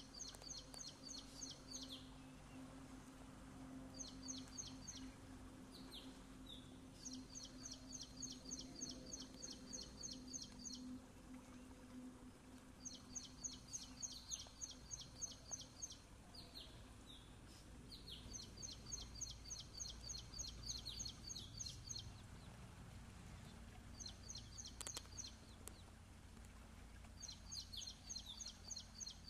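A songbird singing: quick strings of high, sharp notes in phrases of one to four seconds, repeated every few seconds.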